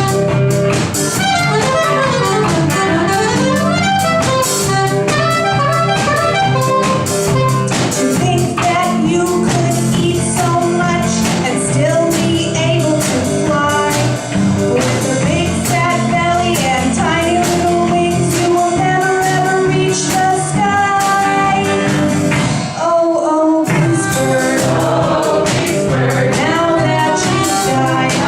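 Live band music: a female voice singing over electric guitar, saxophone and drums, with a brief stop of about a second roughly three quarters of the way through.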